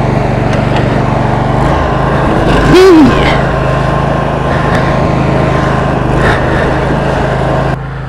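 Roper lawn tractor's 22 hp Briggs & Stratton V-twin engine running steadily under throttle in the snow. About three seconds in a short shout rises and falls over it, and near the end the engine sound drops off.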